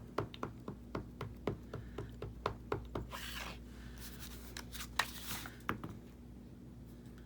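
Light, quick taps at about four a second for the first three seconds, then a short rustle of paper and two sharp clicks, from hands working craft tools and paper on a table.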